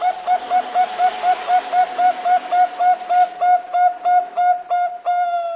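Zebra dove (perkutut bangkok) calling: a fast, even run of short hooked coos, about five a second, ending in one long held note near the end.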